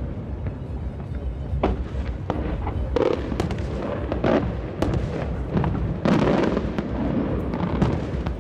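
Aerial fireworks shells bursting: a dozen or so sharp bangs and booms at irregular intervals, over a continuous low rumble of distant reports.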